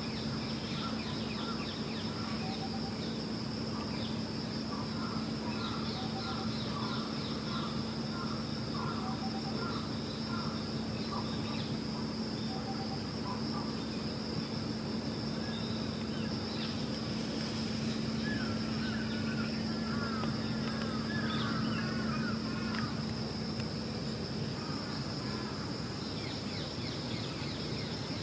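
Outdoor ambience: small birds calling in short repeated chirps, with a run of quicker warbling chirps past the middle, over a steady high-pitched buzz and a low steady hum that fades out near the end.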